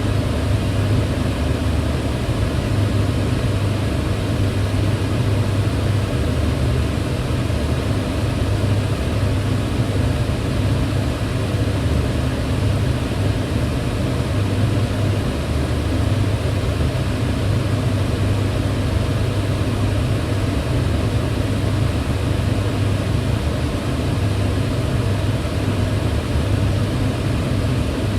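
Kitchen cooker hood's extractor fan running steadily: an even rush of air over a strong low hum, with no change in level or pitch.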